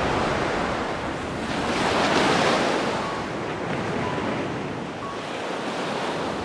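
Surf: a steady rushing of waves, swelling about two seconds in.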